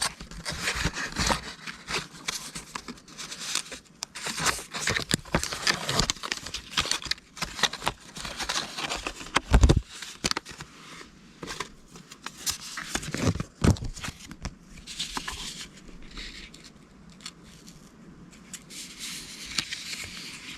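Paper cards and habit-tracker stickers being handled close by: irregular rustling, scraping and small clicks, with a couple of louder knocks about ten and thirteen seconds in.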